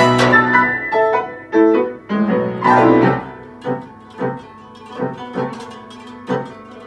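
Guzheng and piano playing together: a dense, loud run of notes with a sweep across the strings near three seconds in, then quieter, single notes about twice a second.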